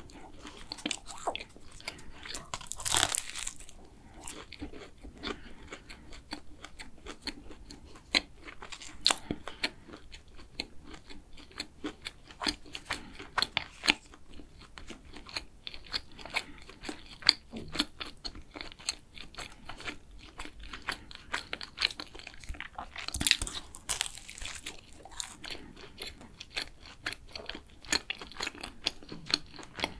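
Close-miked chewing of a flaky custard cruffin, with crisp crackling of the pastry crust. Two louder crunching bites stand out, a few seconds in and again about two-thirds of the way through.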